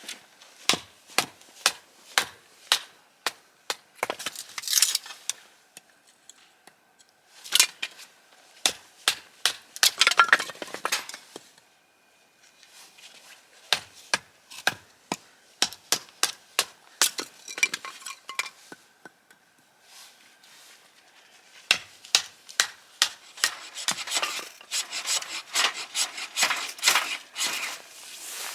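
Wood and tools being handled: a long series of sharp knocks and clicks, with stretches of scraping at about 4–5 s, 10–11 s and in the last few seconds.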